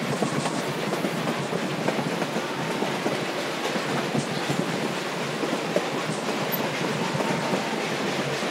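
Narrow-gauge passenger train rolling along the Durango–Silverton line: a steady rolling rumble of the cars, with rapid, irregular clicks and rattles from the wheels on the track.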